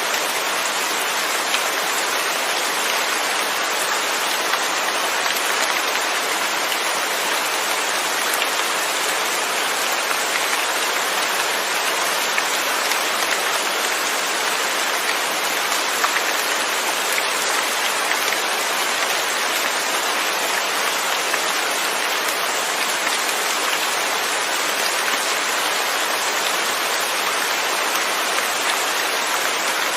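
Steady rain falling, an even hiss of countless drops with no thunder.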